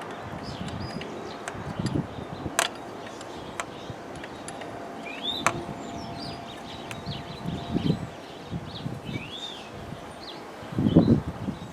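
Hand tools working on engine bolts: a few sharp metal clinks and irregular scraping and handling noises, loudest near the end. Birds chirp throughout.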